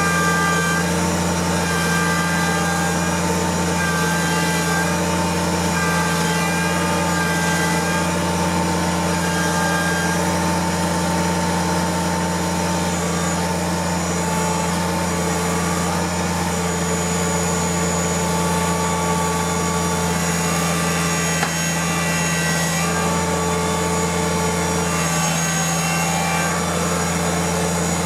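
Kubota tractor's diesel engine running steadily at a constant speed, with an even low hum.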